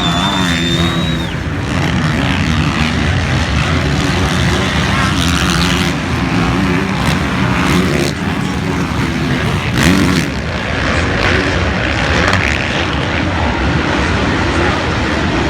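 Several motocross motorcycle engines running on the track at once, revving up and down in a dense, continuous mix.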